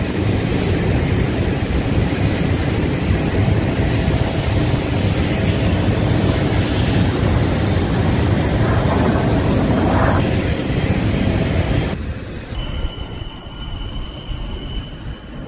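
Loud, steady jet aircraft engine noise at an airshow, with a faint steady high whine over it. About twelve seconds in it cuts off abruptly to a much quieter engine sound with thin whining tones.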